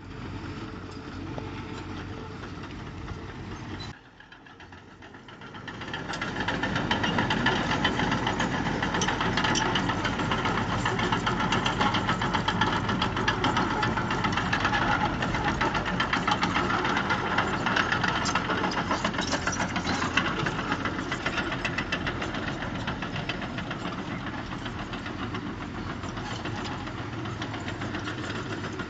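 Diesel engine of heavy earthmoving machinery running with a fast, even clatter. The sound drops sharply about four seconds in, then comes back louder a couple of seconds later and stays steady.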